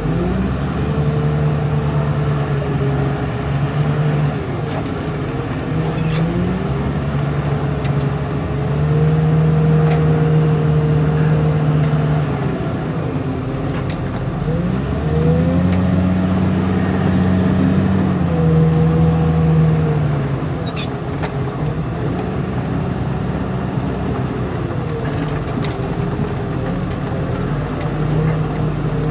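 A vehicle engine running, revved up and eased off several times, its pitch rising, holding for a few seconds, then dropping again.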